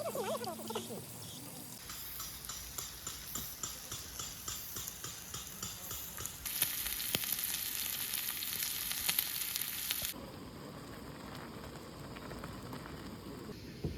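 Pork sizzling in a hot pan or on a grill, with a regular ticking of about two to three a second at first. The sizzle grows louder about halfway in, then stops abruptly, leaving a quieter background.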